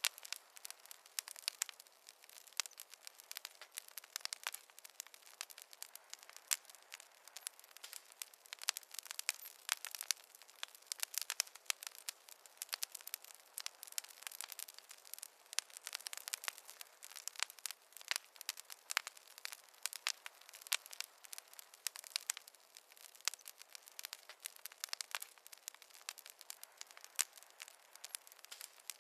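Wood fire crackling in a fireplace: a dense, irregular stream of sharp pops and snaps with little low rumble.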